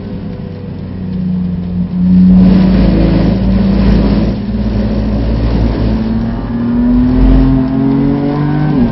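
BMW F80 M3's twin-turbo straight-six heard from inside the cabin, running at a steady pitch through a bend, with a rush of noise from the wet road for a couple of seconds. From about two-thirds of the way in, the engine note climbs as the car accelerates, then drops suddenly near the end as it shifts up.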